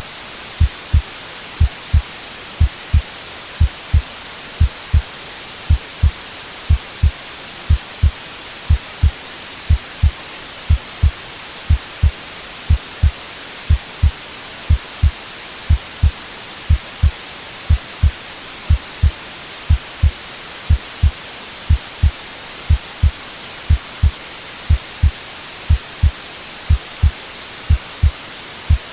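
Heartbeat sound: a steady lub-dub of paired low thumps, about one double beat a second, over a constant white-noise hiss.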